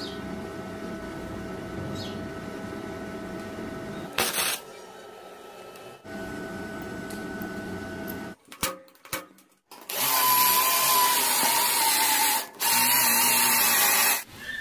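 A power tool running in two loud, high-pitched stretches in the second half, each a couple of seconds long with a short break between. Quieter steady working noise and a few clicks come before them.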